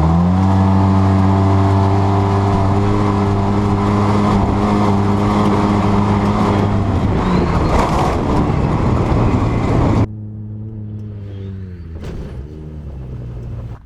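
Off-road vehicle engine revving up and held at high revs for several seconds, then a rushing noise, cut off abruptly about ten seconds in and followed by a quieter run of the engine that drops in pitch near the end.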